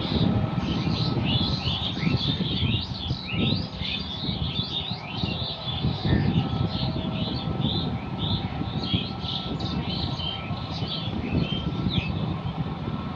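Many birds chirping constantly in short, quick calls, over the low steady running of a John Deere 5210 tractor working a rotavator in mud.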